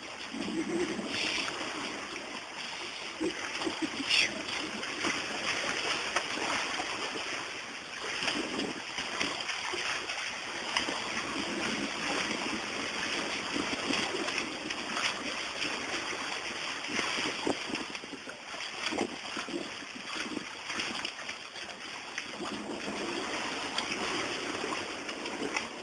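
Steady splashing and rushing of water around a small boat, with a constant crackling wash and faint voices now and then.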